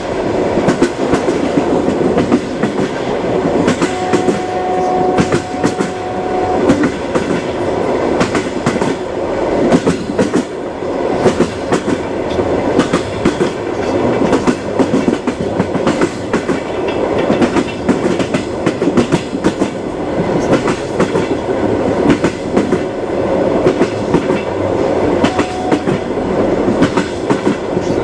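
A moving train running on, its wheels clicking and knocking over the rails in a dense steady rumble. A thin steady tone sounds over it for a couple of seconds about four seconds in, and briefly again near the end.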